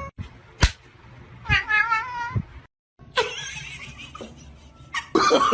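A house cat gives one drawn-out meow with a wavering pitch, with a couple of sharp taps around it. After a short cut about three seconds in, a rougher noise follows.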